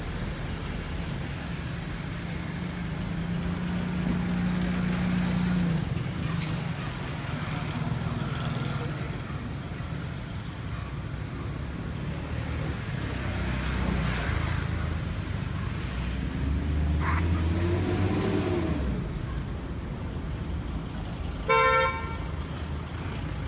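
Road traffic going by with a steady low rumble, swelling as vehicles pass. Near the end a vehicle horn sounds once, briefly; it is the loudest sound.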